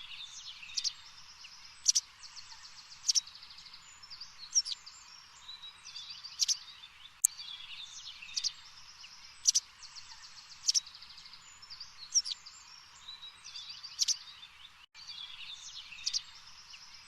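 Songbirds chirping and trilling over a steady high hiss, with sharp calls roughly once a second. The sound cuts out for an instant near the end.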